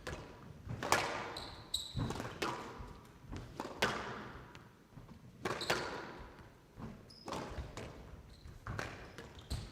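A squash rally: the ball is struck by rackets and smacks off the court walls in sharp cracks about once a second, each ringing on in the enclosed court, with a few short high squeaks between them.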